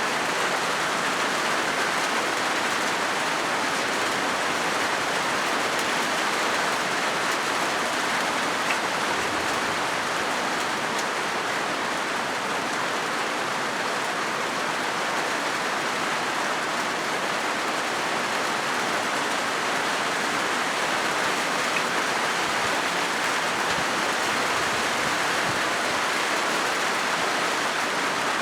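Steady rain falling on a corrugated zinc roof: an even, unbroken wash of drops on the metal sheets that holds constant throughout.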